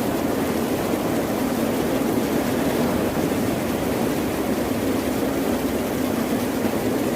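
Ocean surf: a steady, even roar of breaking waves with no distinct surges.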